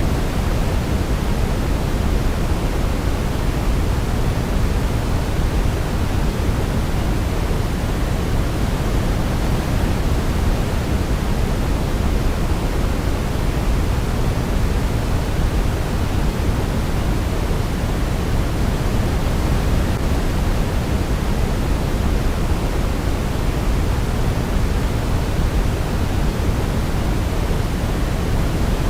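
Steady synthetic sleep noise: a deep, even hiss that never changes, with no melody heard.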